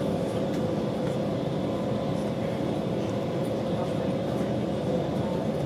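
Running noise inside a Deutsche Bahn InterCity 2 Twindexx double-deck coach at speed: a steady rumble of wheels on rail with a faint steady whine over it.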